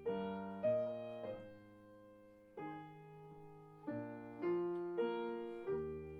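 Soft background piano music: slow, gentle chords struck about once a second and left to ring and fade.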